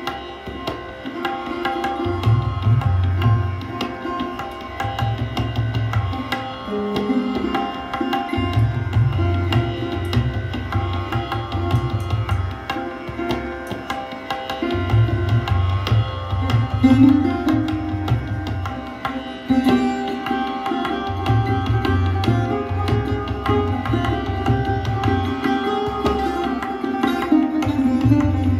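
Sarod playing a plucked melody with sliding notes, accompanied by tabla whose deep bass-drum strokes come in recurring stretches every few seconds.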